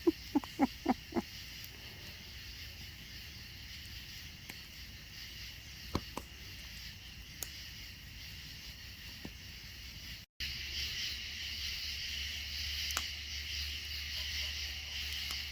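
Evening chorus of crickets or similar insects, a steady high chirring. A quick run of about six short pitched calls opens it, a few faint clicks fall through it, and about ten seconds in the chorus cuts and comes back louder over a low hum.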